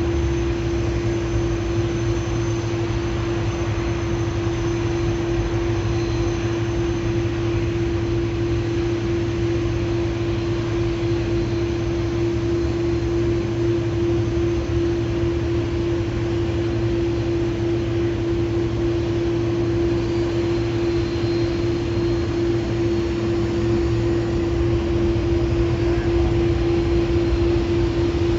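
Jet airliner engines running, a steady noise with one constant hum-like tone that holds unchanged throughout.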